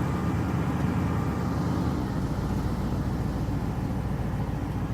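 Truck engine idling: a steady low hum with no changes.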